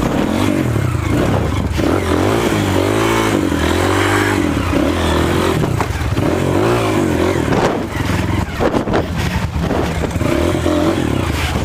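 Off-road motorcycle engine revving up and down repeatedly as it works through a rough trail section, with short knocks and scrapes.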